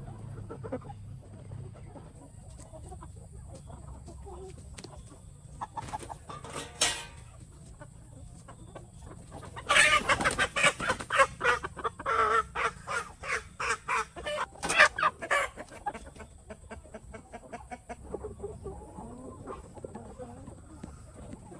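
A flock of capons clucking, with a short outburst about six seconds in. A louder run of rapid clucking and squawking follows from about ten to fifteen seconds in, then dies back to low clucking. A steady high hiss runs underneath.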